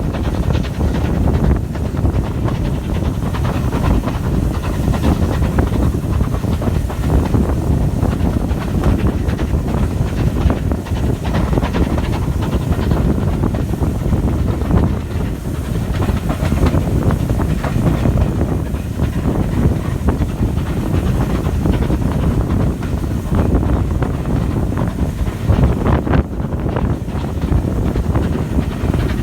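Steam-hauled passenger train of an Ivatt Class 2 locomotive running along the line: a steady rumble with continual clatter of wheels on the rails.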